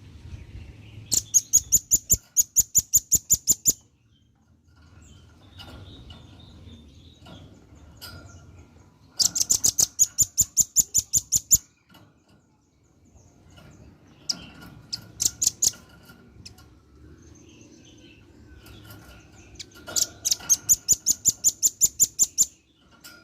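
Male velvet-fronted nuthatch calling: four runs of rapid, sharp, high notes at about five a second. Most runs last two to three seconds, and one is shorter.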